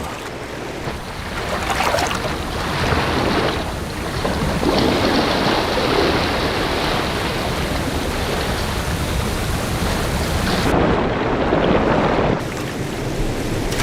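Waterfall and river rapids rushing, a steady, full noise of falling water that grows a little after the first second. It turns duller for a moment near the end.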